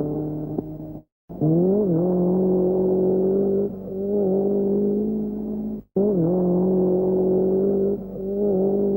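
Rally car engine at high revs: the pitch climbs and settles to a steady note, with a brief dip and recovery in revs partway through. The sound cuts off abruptly about a second in and again near six seconds, then picks up with the same climbing, steady engine note.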